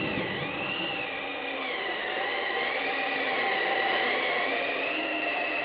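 Spooky sound effect from a vinyl Halloween record: a high whistling tone that slowly wavers up and down over a steady hiss and a held lower tone, like an eerie wind or ghostly moan.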